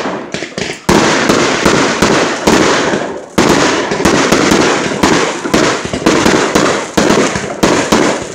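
Aerial fireworks bursting overhead in a rapid, unbroken run of loud bangs, several a second, each trailing off into the next.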